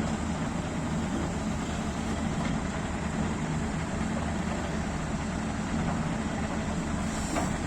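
Scania G500 truck's diesel engine idling steadily.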